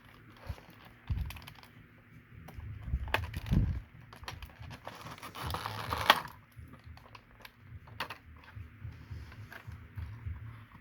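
Plastic model-kit parts and packaging being handled on a table: scattered small clicks and taps, a few dull knocks in the first few seconds, and a brief rustle about five seconds in.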